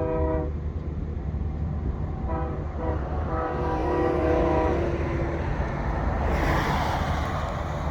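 Diesel locomotive air horn sounding three blasts, the last the longest, over a steady low rumble.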